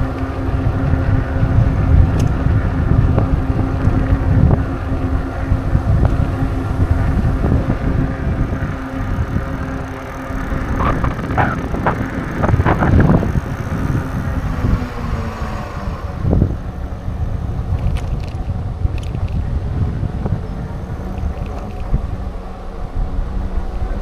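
Wind rushing over the microphone of a moving bicycle, a heavy low rumble, with a steady hum underneath that slides down in pitch about two-thirds of the way through. A short run of rattling clatters comes near the middle.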